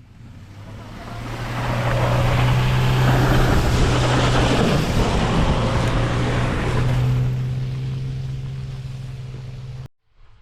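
A motor vehicle driving past: a steady engine hum and road noise that build up over the first couple of seconds, stay loud, then fade away and cut off near the end.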